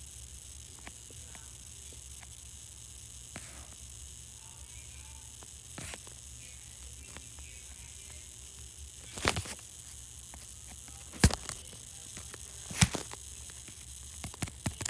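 Steady low hum and hiss of a New York City Subway E train car running between stations. A few sharp clicks come in the second half, at uneven intervals of a second or two.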